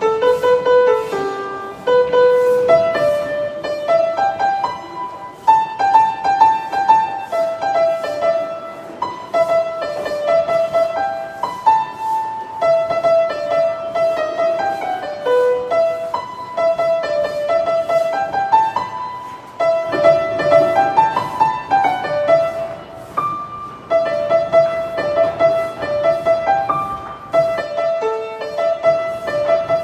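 Solo piano playing a quick, bouncy tune of short repeated notes over steady chords, the bass getting fuller and louder about two-thirds of the way through.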